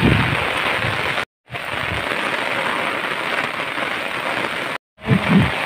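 Heavy rain falling: a steady, even hiss of rain on ground, water and foliage. The hiss cuts out completely twice for a moment, about a second in and near the end, with a few low bumps near the start and end.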